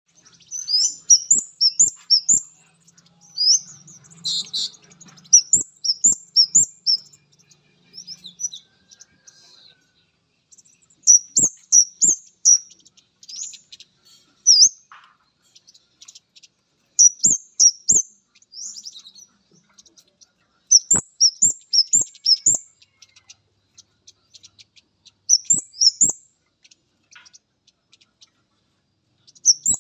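Male kemade flowerpecker giving repeated high, sharp chirping calls in quick bursts of three to five notes, with pauses of a few seconds between bursts, in response to a female. Soft low knocks are scattered among the calls.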